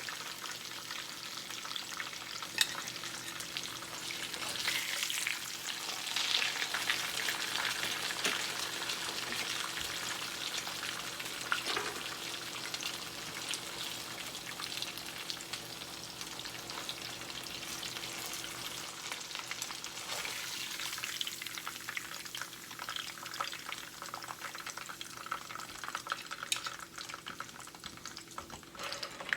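Breadcrumb-coated chicken breast frying in hot oil, a steady dense sizzle with constant small crackles as the coating turns crisp and golden. A faint low hum runs steadily underneath.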